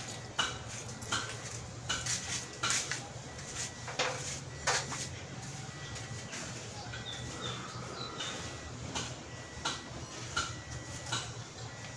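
Irregular metallic clinks and taps of hand tools on car parts, over a steady low hum.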